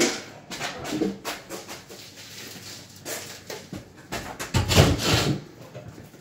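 Wooden cabinet being handled and shifted during installation: scattered knocks and clicks, with a louder rubbing thump about four and a half seconds in.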